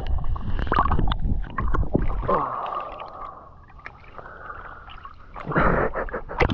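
Someone wading through deep river water: splashing and sloshing with many short irregular splashes. It is louder at the start and again from about five and a half seconds in, with a quieter stretch in between.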